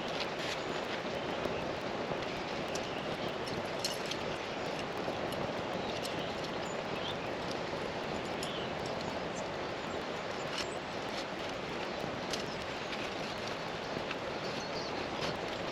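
Steady outdoor ambience: an even rushing noise with scattered faint clicks and short high chirps.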